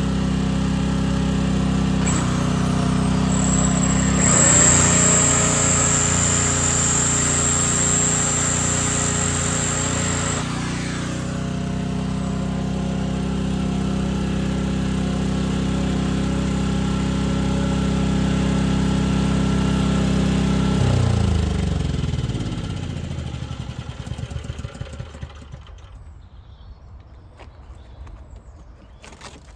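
Leyland Roadtrain truck's diesel engine idling steadily, with a high whistle over it for about seven seconds a few seconds in. About 21 seconds in the engine is shut off and runs down to a stop.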